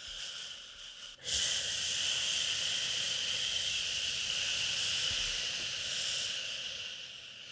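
A long, steady "shhh" shushing sound to soothe a baby, starting after a short break about a second in and easing off near the end.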